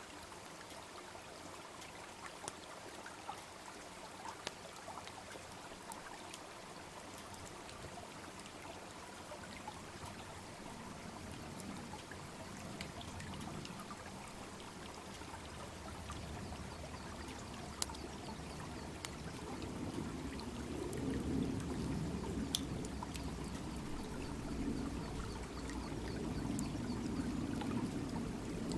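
A small brook babbling steadily, with sharp pops and crackles from a wood bonfire scattered through it. A deeper rushing swells up about two-thirds of the way through.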